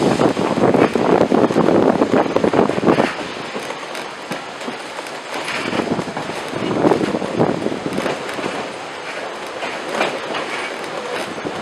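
Passenger cars of a steam excursion train rolling along the track, wheels clattering over the rail joints, loudest in the first three seconds. Wind is buffeting the camera's built-in microphone.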